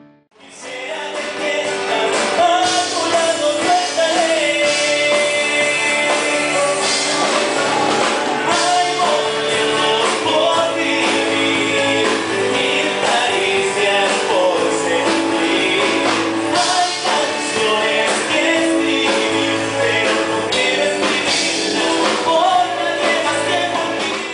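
Live rock band music with singing, coming in abruptly about half a second in after a brief drop.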